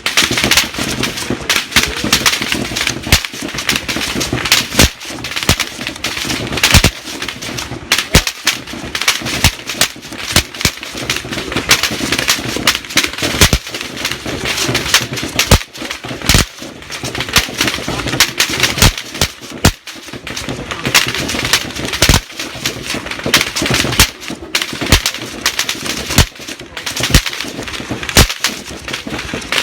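Sustained, irregular rifle fire from several guns, many shots a second overlapping, with the sharp cracks of bullets passing overhead.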